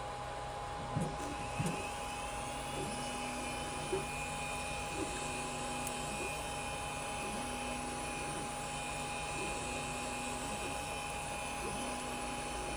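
3D printer running a print: cooling fans hiss with a steady whine while the stepper motors hum in short pitched moves that change about once a second, with a few light clicks near the start.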